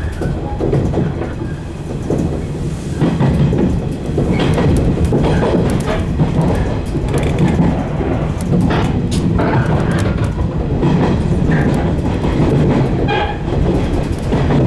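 115 series electric train running, heard from inside the front car: a steady rumble of wheels and motors on the rails, with irregular clacks as the wheels cross rail joints. It grows louder about four seconds in.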